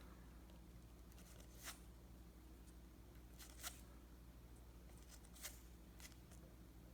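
Near silence over a low steady hum, with three faint soft clicks about two seconds apart as baseball cards are slid off a stack one by one.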